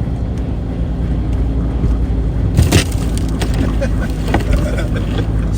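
Off-road truck engine running steadily while the truck drives through fresh powder snow. A loud burst of noise comes about two and a half seconds in, followed by a few scattered knocks.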